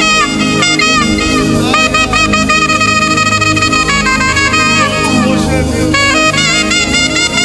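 Saxophone playing a lead line of quick melodic runs with notes that slide into one another, over a gospel band accompaniment.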